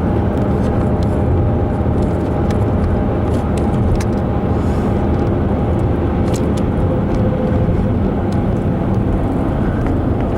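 Steady road and engine noise inside a moving car, with a few faint clicks.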